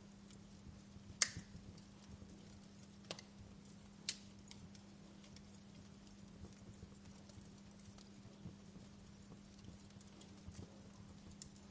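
Fire crackling: scattered sharp pops and small ticks, the loudest about a second in and two more around three and four seconds, over a faint steady low hum.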